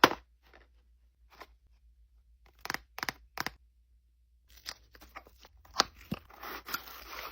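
Toy packaging being opened by hand: scattered sharp crackles and clicks of handled plastic and card, then about a second of continuous tearing near the end.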